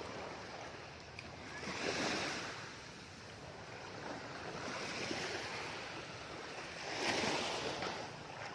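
Small sea waves washing in and breaking at the shore, the surf surging three times.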